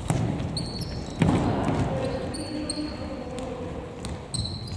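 A football being kicked during play, three thuds with a ringing echo: one at the start, one just over a second in, and one near the end. Short high squeaks of players' shoes on the floor come in between.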